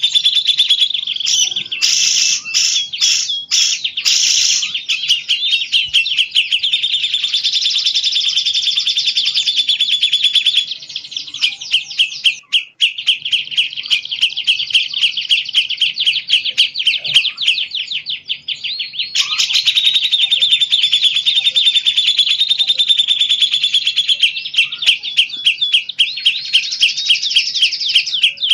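Recorded songbird song: a loud, continuous stream of rapid high-pitched chirps and trills with hardly a pause, the kind of song used as masteran to tutor cage birds.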